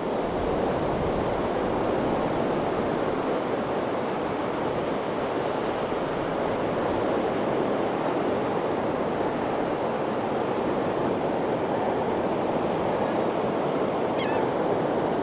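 Steady rush of surf breaking on the beach, with wind on the microphone. A brief, faint high-pitched chirp sounds near the end.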